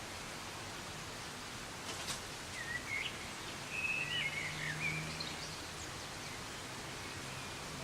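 Steady hiss of soft rain, with a few small birds chirping briefly in the middle and a single click about two seconds in.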